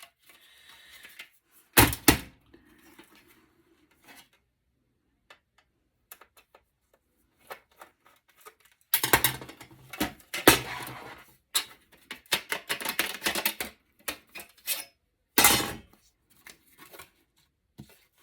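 Intermittent clatter and knocks of circuit boards and metal server parts being handled and set down, with a busy run of rattling about halfway through.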